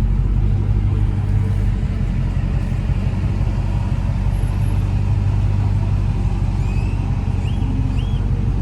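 Dodge Charger Hellcat Redeye's supercharged 6.2-litre V8 idling with a steady low rumble.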